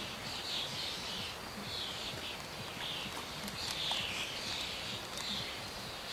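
Small birds singing, with short high chirping phrases repeating about every half second to a second over low background noise.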